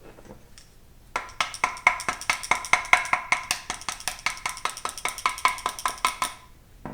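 A 4L60E transmission part banged rapidly against a metal work table to shake a stuck piece loose from inside it. It is a fast, even run of ringing metallic knocks, about six a second, starting about a second in and stopping abruptly near the end.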